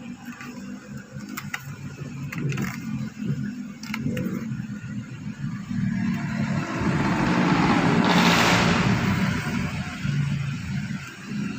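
Mazda 3's engine running, growing louder about six seconds in as it picks up speed, with a rushing swell around eight seconds.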